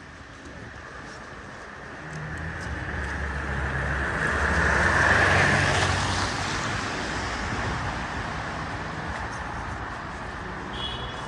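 A motor vehicle driving past, its engine and tyre noise swelling to a peak about halfway through and then fading away.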